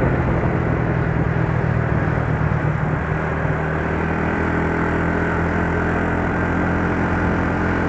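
Yamaha Mio Soul scooter's single-cylinder four-stroke engine running at a steady speed while riding, its carburettor freshly cleaned, with road noise.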